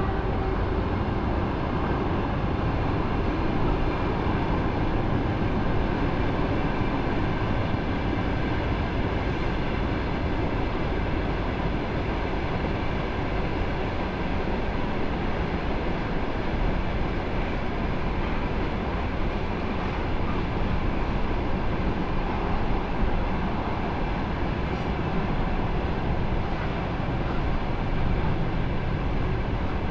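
A train passing on the railway line: a steady, even rumble of wheels on the rails.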